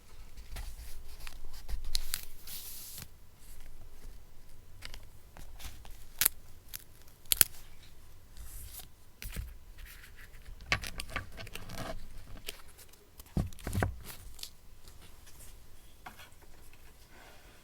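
Paper being handled for collage journaling: rustling and crinkling with scattered light taps and clicks, and a longer papery rasp about two seconds in.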